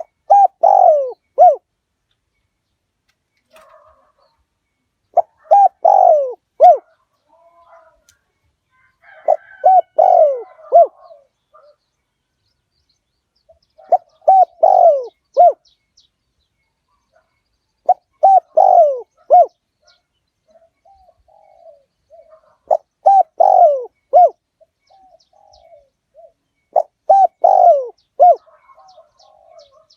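Spotted dove cooing: a short phrase of three or four coos, repeated seven times about every four and a half seconds, with fainter bird calls between the phrases.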